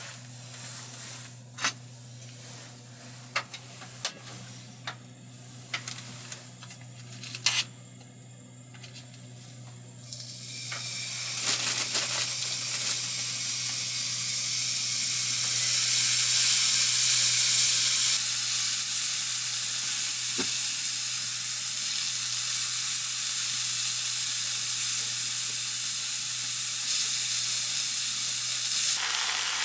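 Food sizzling in a hot pan. A few light clicks and taps come first, then a loud, steady frying hiss starts about a third of the way in and keeps going.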